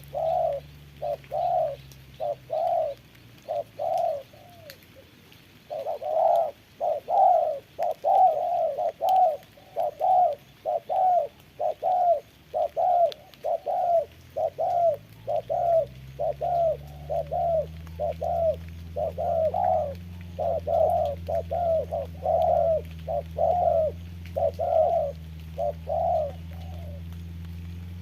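Spotted doves cooing in a fast run of short, repeated calls, about two a second, with a brief pause about five seconds in. From about halfway a low hum rises in pitch and then holds steady underneath.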